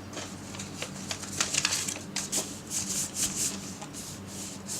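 Square sheet of origami paper being folded and pressed into creases by hand, rustling and crinkling in short irregular bursts with a few light clicks.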